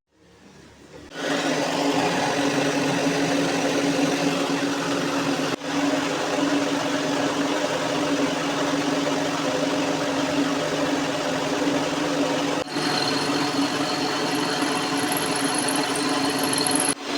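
Electric power tool motor running at a steady pitch while an air-rifle chamber tube is cut down to length. It starts about a second in and drops out briefly three times.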